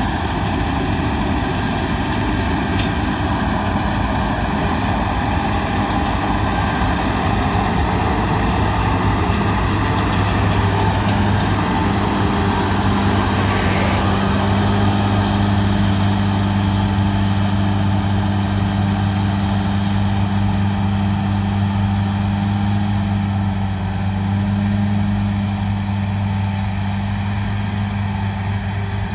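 Heavy diesel engine of harvest machinery running steadily, a loud low hum. A second, higher tone joins about twelve seconds in and holds.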